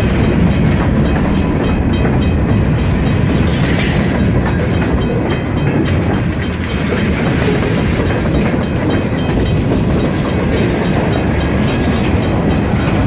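Freight train cars rolling past at close range: a steady loud rumble with wheels clicking and clacking over the rail joints.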